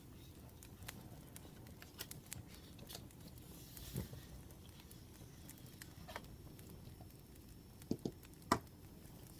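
Wood fire crackling, with scattered small sharp pops over a low steady hiss and three louder pops close together near the end.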